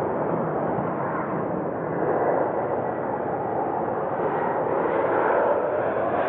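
Boeing 737 MAX 8 jetliner on final approach, its CFM LEAP-1B turbofans making a steady rumbling roar that slowly grows louder as it comes nearer.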